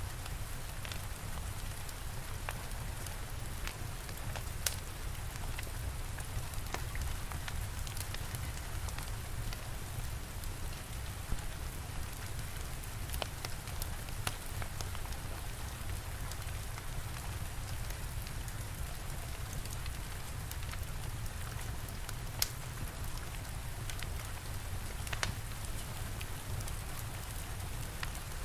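Steady rain falling with a low rumble, and a fire crackling with scattered sharp pops every few seconds.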